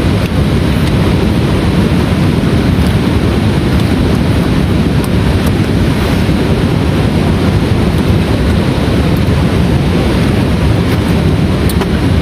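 Heavy rain falling steadily, a loud, even rush with a few faint sharp ticks of drops scattered through it.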